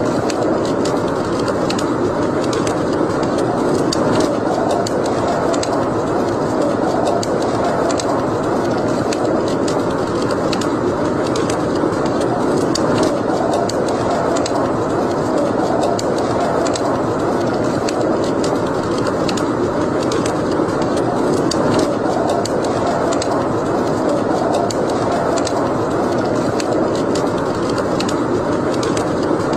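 Wood fire burning in a fireplace: a steady rush of flames with frequent small, sharp crackles and pops.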